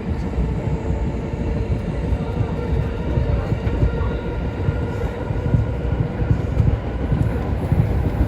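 Passenger train running along the line, heard from inside the carriage as a steady, deep rumble of wheels on track.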